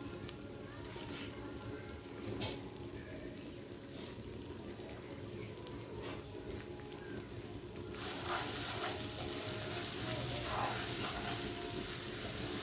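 Rice frying in hot oil in a pan, the sizzle suddenly getting much louder about eight seconds in, with a few spoon scrapes as it is stirred. This is the rice being fried before the water goes in, so the grains come out loose.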